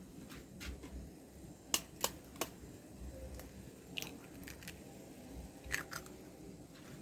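Scattered light sharp clicks and taps, three in quick succession about two seconds in and a few more later, over a low steady hum.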